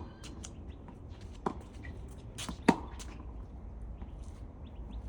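Tennis ball impacts during a rally: two sharp knocks about a second apart, the second louder, with a few fainter clicks. Wind rumbles on the microphone throughout.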